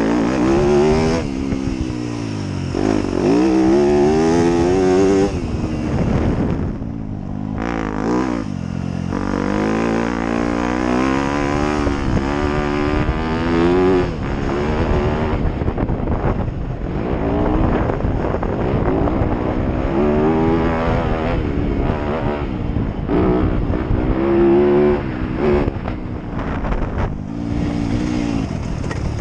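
Motocross dirt bike engine being ridden hard: the pitch climbs and drops back again and again as the rider opens the throttle, shifts and backs off.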